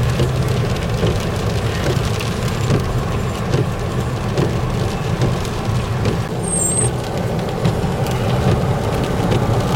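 Steady in-cabin road and engine noise from a moving car, a continuous low rumble, with a few faint ticks.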